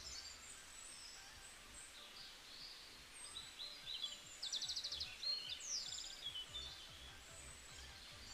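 Birds singing: scattered high chirps and short trills, with a fast rattling trill about halfway through and a falling call just after it, over a faint low rumble.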